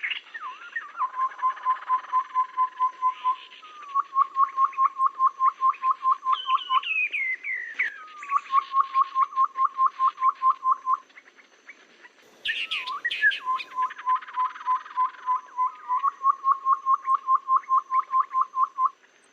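Tepus babbler calls played as a bird-lure recording: runs of quick, evenly spaced low whistled notes, about six a second. The runs are broken by falling chirps and a short burst of sharper, higher notes.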